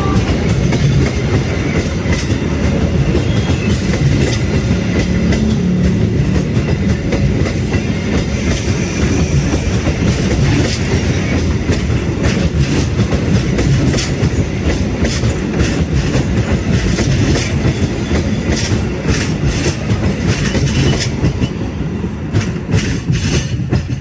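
Train cars rolling past close by, with a steady low rumble and the wheels clacking repeatedly over rail joints. The sound fades away near the end.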